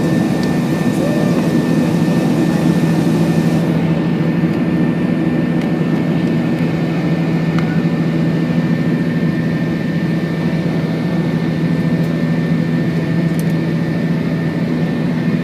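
Airbus A321 jet engines and airflow making a steady loud drone with several steady tones, heard inside the cabin during the climb after takeoff. The high hiss drops away about four seconds in.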